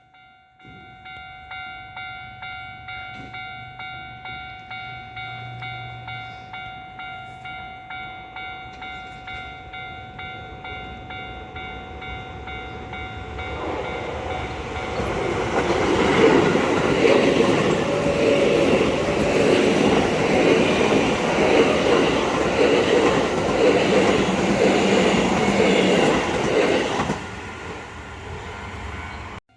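Japanese level-crossing warning bell ringing in a steady, fast ding-ding about twice a second, then an electric commuter train passing over the crossing from about 13 seconds in, its wheels clattering and the noise building to the loudest part before dropping off near the end.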